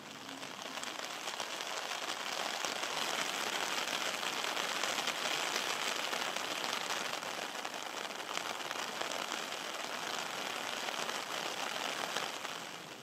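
Heavy rain falling steadily, a dense hiss of drops. It swells in over the first couple of seconds and falls away near the end.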